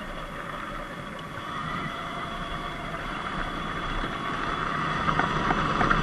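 Surron X Light Bee electric dirt bike riding on a dirt road: a steady motor whine over tyre and wind noise, growing louder through the last few seconds, with a few short ticks near the end.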